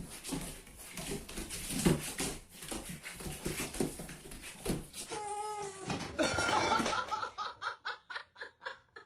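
A cat meowing, with one drawn-out call about five seconds in, followed by a person laughing in short repeated bursts near the end.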